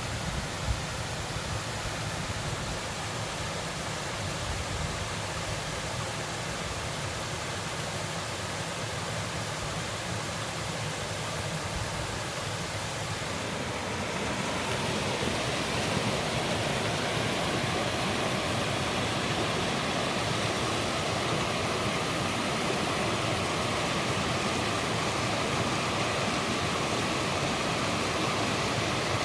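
Water rushing steadily at a waterfall, becoming louder and fuller about halfway through.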